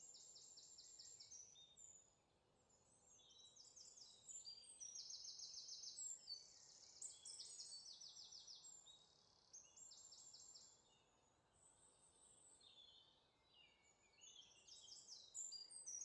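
Faint songbirds singing: a run of high, rapid trilled phrases, often overlapping, over quiet outdoor background noise.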